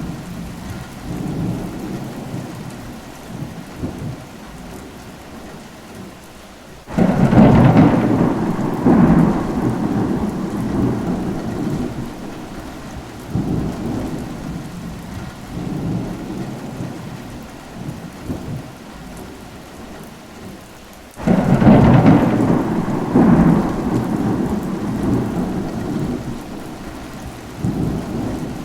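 Steady rain with thunder rumbling low throughout. Two loud thunderclaps break in suddenly, about seven seconds in and again about fourteen seconds later, each rolling away over several seconds.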